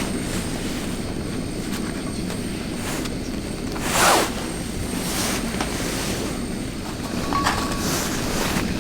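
Steady low rushing outdoor noise. About four seconds in, one brief loud sound slides down in pitch.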